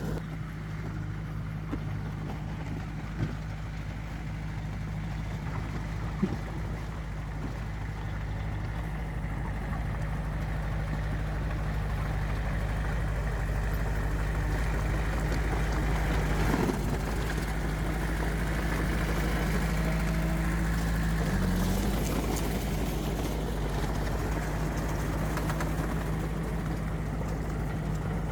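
Heavy diesel engine of earthmoving machinery running steadily at a low, even hum, with a brief dip in engine pitch about three-quarters of the way through and two light knocks early on.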